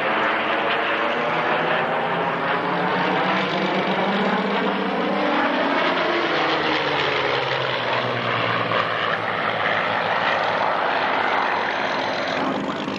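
Propeller aircraft flying past, its engine note sweeping and then dropping in pitch about halfway through as it goes by, with a phasing swirl in the sound.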